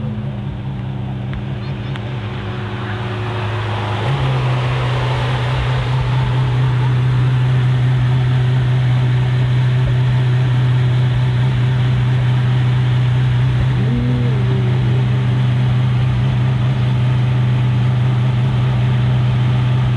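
A car engine running with a loud, steady low drone at an unchanging pitch. It grows louder about four seconds in.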